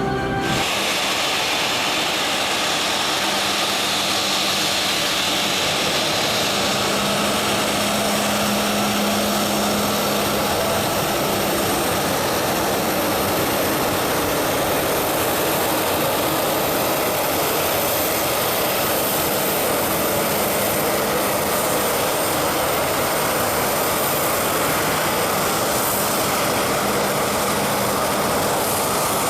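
Embraer E190's twin General Electric CF34-10E turbofan engines running at taxi power: a steady jet rush and whine with a low hum underneath, holding even throughout.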